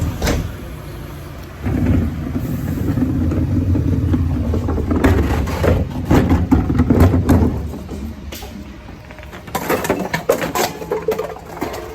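Garbage truck engine running up loudly for about six seconds, with sharp metallic clanks over it, then dropping back; a further burst of clanking and clatter follows near the end.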